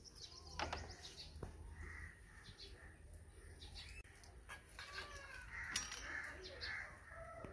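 Birds chirping and calling, several short calls in the second half. A couple of sharp clicks come about half a second and a second and a half in.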